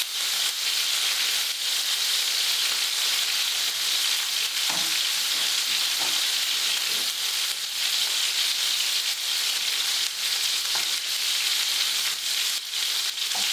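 Butter chicken sauce sizzling steadily in a frying pan just after a teaspoon of tomato puree has gone in. Short scrapes and knocks now and then from stirring.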